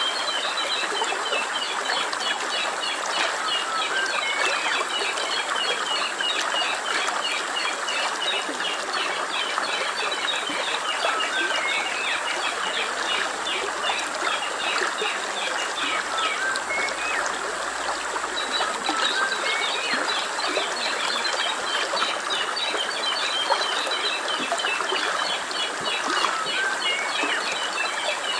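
Birds chirping in quick, repeated high notes, with an occasional single call, over a steady rush of running water.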